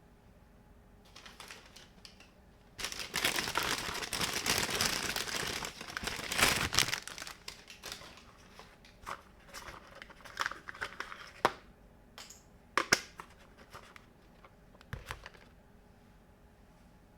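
Plastic packaging crinkling as it is handled and pulled open: a dense stretch of crinkling from about three to seven seconds in, then scattered crinkles and light clicks.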